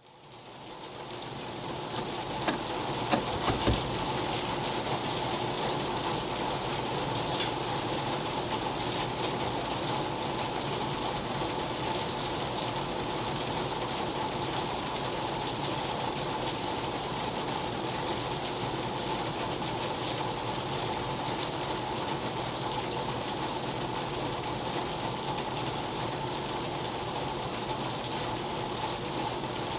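Steady rain falling, fading in over the first couple of seconds and then holding even. A few sharp taps stand out about three seconds in.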